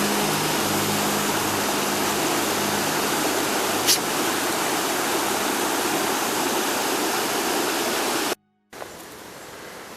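Hilton Falls waterfall rushing: a loud, steady wash of falling water. It cuts off suddenly near the end and gives way to much quieter outdoor noise.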